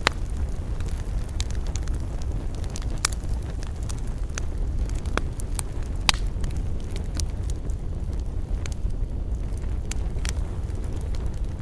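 Wood fire burning: irregular sharp crackles and pops of the burning wood over a steady low rumble, with the loudest pops near the start and about six seconds in.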